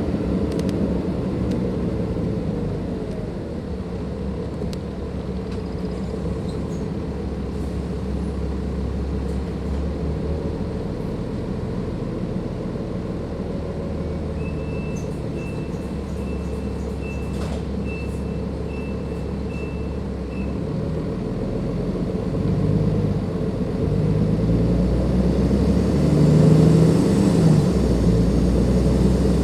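Cummins ISLe diesel engine of a Dennis Enviro 500 double-decker bus running steadily under way. A high-pitched beeping sounds for several seconds in the middle. Near the end the engine pitch rises and falls as the revs change.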